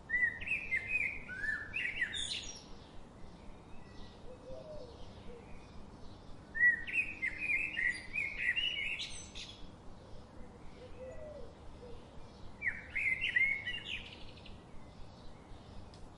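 A songbird singing three short phrases of quick, warbling notes, several seconds apart, each ending in a rising note. A faint steady forest background runs under them.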